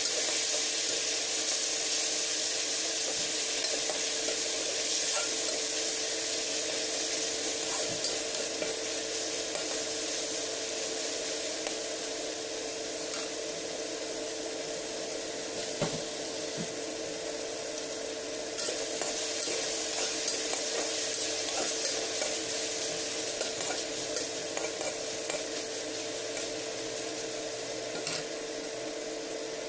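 Sliced meat sizzling steadily in oil in a wok, with a spatula stirring it at the start and a few light knocks later. The sizzle grows gradually quieter. A steady hum sits underneath.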